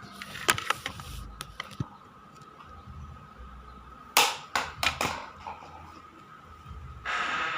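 Battery-powered toy robot cat being handled and run: a faint steady whine under a series of sharp plastic clicks and knocks, a cluster of louder scraping bursts about halfway through, and a hissing noise near the end.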